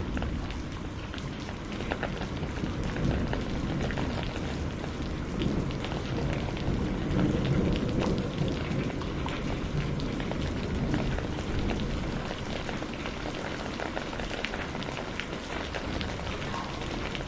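Steady rain, many individual drops ticking on a surface, over a low rumble.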